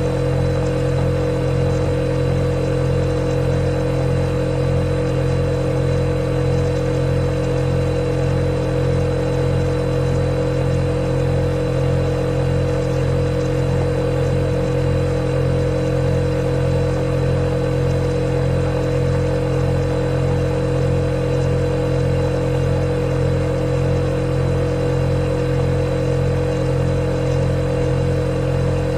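Refrigerator running with a steady, unchanging hum: a low drone with a clear higher tone above it.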